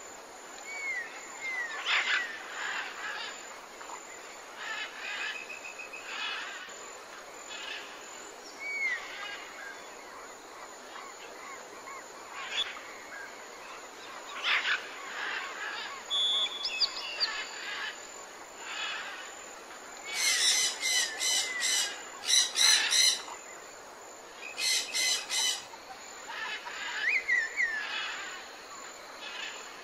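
Birds chirping and calling over a steady outdoor hiss, with short whistled notes throughout. About twenty seconds in come several loud bursts of rapid repeated notes.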